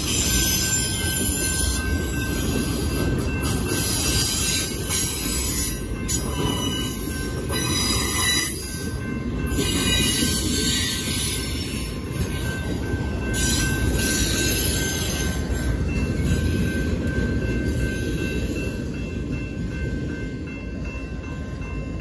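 Freight train of BNSF autorack cars rolling past a grade crossing: a steady rumble and rush of wheels on rail with thin high wheel squeal. The noise thins out over the last few seconds as the last cars go by.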